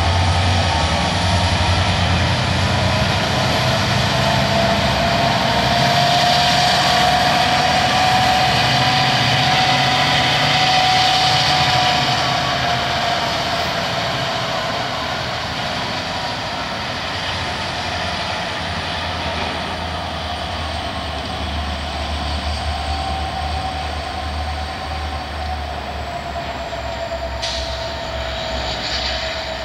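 Diesel freight locomotives, a GMTX SD60 leading with an NS SD70 and C40-9W behind, running with a steady low rumble as the train rounds a curve, the wheels giving a thin, steady squeal on the curved rail. A single sharp click comes near the end.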